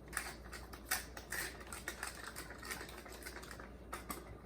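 Salt being scattered over the oiled focaccia dough: a run of light, irregular ticks.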